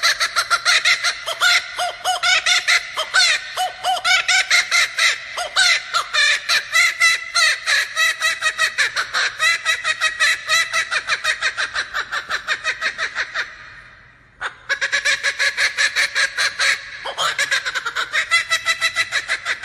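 Laughing kookaburra giving its laughing call: a long, loud run of fast repeated harsh notes, several a second. It breaks off briefly about fourteen seconds in, then starts up again.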